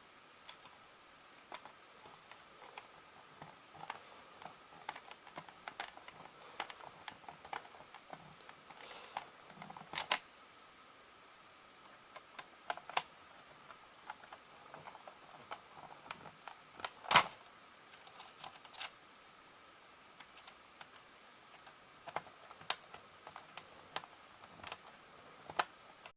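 Small irregular clicks and taps of a screwdriver and fingers on a plastic VHS cassette shell as its screws are driven back in, with one louder knock about two-thirds of the way through.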